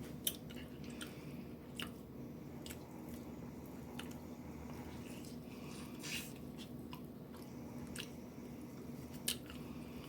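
A person chewing and biting food close to the microphone: a scatter of short, wet mouth clicks and smacks, with a steady low hum underneath.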